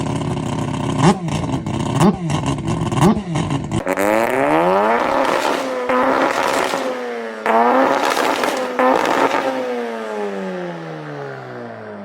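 Car engine blipped three times, then accelerating hard: its pitch climbs and drops twice as it shifts up, then falls away and fades.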